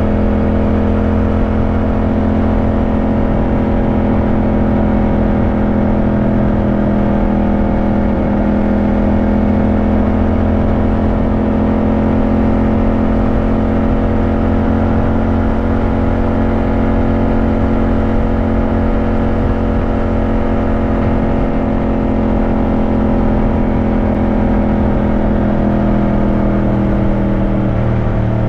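Yamaha motorcycle engine running steadily at cruising speed, its pitch drifting only slightly, then falling near the end as the revs drop.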